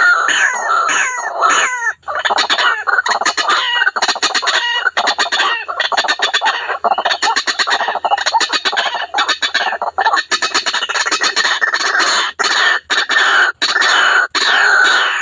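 White-breasted waterhen (ruak-ruak) calling in a loud, dense, unbroken run of short, harsh repeated notes: the bird's call as played to lure others of its kind.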